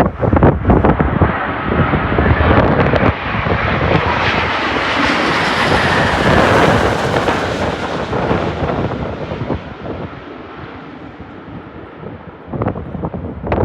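Jet airliner on landing approach passing overhead, its engine noise swelling to a peak midway and then fading. Gusts of wind buffet the microphone at the start and again near the end.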